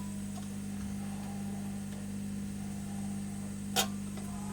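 Steady hum of a hot air rework station's blower running, with one sharp click from a tool a little under four seconds in.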